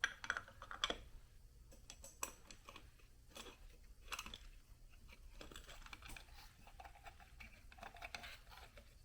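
Faint clicks and scrapes of small metal carburetor parts being handled as the float bowl is fitted back onto a Suzuki DR650 carburetor, the sharpest clicks in the first second.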